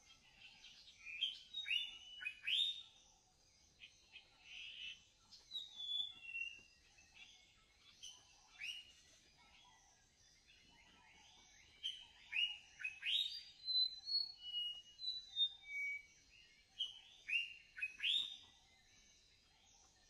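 Several birds singing and chirping in short, sweeping notes. The notes come in busy clusters near the start and again through the second half, with a lull around the middle.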